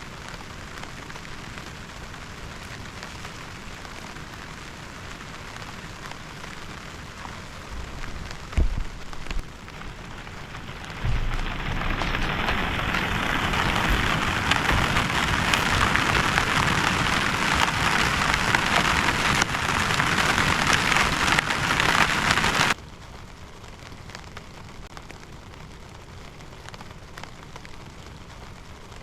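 Rain falling steadily. About eight seconds in come a couple of low thumps. From about eleven seconds the rain turns much louder and heavier for some ten seconds, then drops off suddenly back to the lighter patter.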